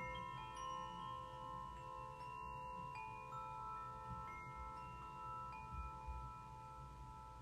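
Metal chimes struck softly, a new note every second or so, their clear tones ringing on and overlapping, with a low steady rumble underneath.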